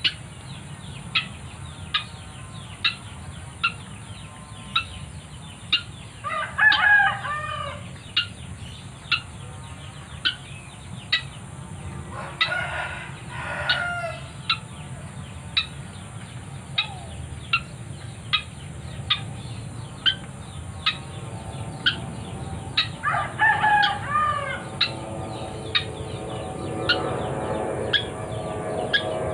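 A rooster crows three times, each crow about a second and a half long, over a steady run of short sharp ticks roughly once a second.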